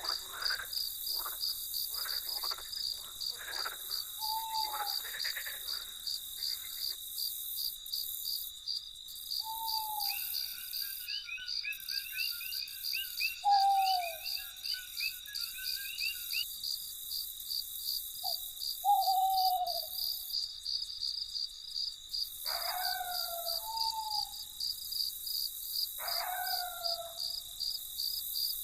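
Crickets chirping in a fast, steady pulse throughout. Over them come short falling calls from a night bird every few seconds, and a rapid trill of another night creature from about ten to sixteen seconds in.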